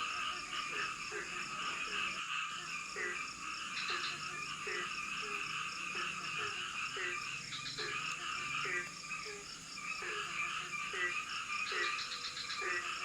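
Tropical forest frog chorus: one frog repeats a short, low, downward-sliding croak about twice a second over a dense, steady high-pitched chorus of calling frogs and insects.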